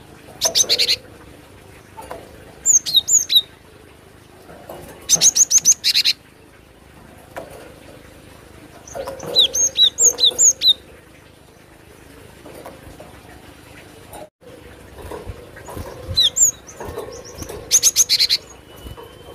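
Cinereous tit (glatik batu) calling: short bursts of fast, harsh rattling notes alternate with groups of brief clear whistled notes that slur downward in pitch, repeated every few seconds.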